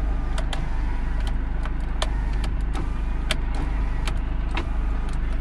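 Car engine idling, heard from inside the cabin as a steady low rumble, with a scattering of sharp, irregular clicks over it.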